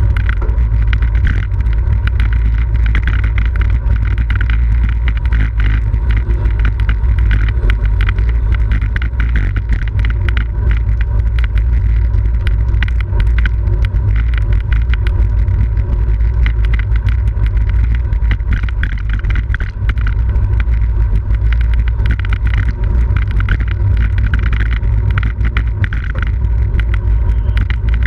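Wind buffeting the microphone of a camera on a racing bicycle, a steady heavy rumble, with a busy rattle of clicks from the bike running over the road.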